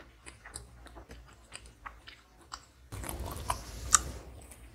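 Close-miked chewing of a mouthful of food by hand, mouth closed, with soft wet clicks. About three seconds in, a louder rustling with sharper clicks sets in as a hand picks more food from the plate.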